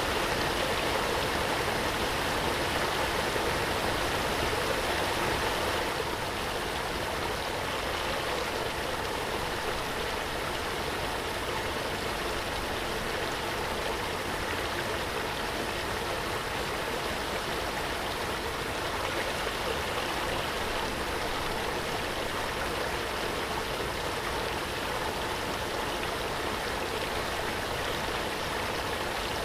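Waterfall: a steady rush of falling, splashing water, dipping slightly in level about six seconds in.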